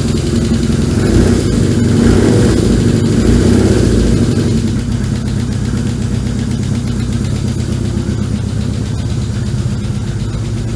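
BMW R1100GS air/oil-cooled flat-twin boxer engine idling steadily, a little louder for the first few seconds and then settling. It is being run for a few minutes on fresh oil and a new filter to check for leaks.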